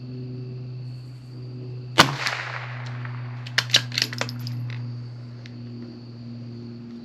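A single shot from a CZ 457 bolt-action rifle in .22 LR about two seconds in, followed about a second and a half later by a quick run of sharp metallic clicks as the bolt is worked to eject the case and chamber the next round. A steady hum runs underneath.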